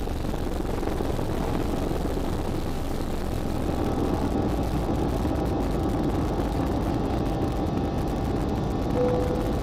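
Jet airliner cabin noise on final approach: steady engine and airflow noise heard from inside the cabin. Faint steady engine tones come in about four seconds in, and a brief single tone sounds near the end.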